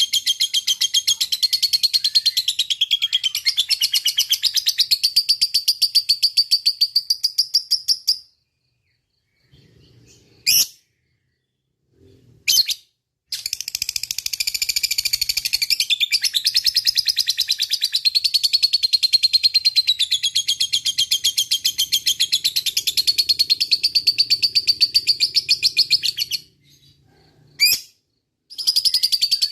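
Lovebird giving a long ngekek: a rapid, high chattering trill held for many seconds without a break. It stops about eight seconds in, gives a couple of short chirps, then resumes for another long run before breaking off briefly near the end.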